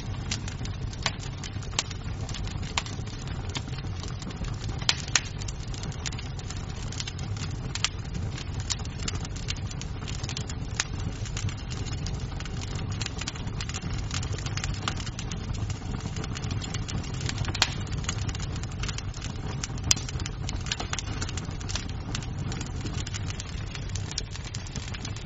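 Wood fire crackling in a fireplace: a steady low rumble of flames under frequent sharp pops and snaps of burning wood, with two louder pops about two-thirds of the way through.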